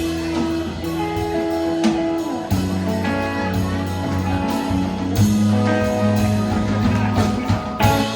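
Live band playing an instrumental passage: sustained guitar notes over a bass line and drums.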